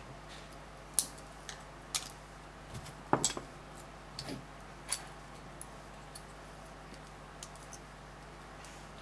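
LEGO plastic pieces clicking and tapping as they are handled and pressed together, with a sharp click about once a second for the first five seconds, then fainter ticks.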